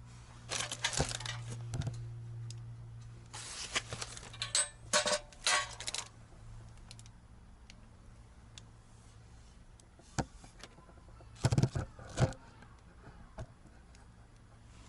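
Metal clinking and rattling in three short clusters, typical of tools and small metal parts being handled, over a low steady hum.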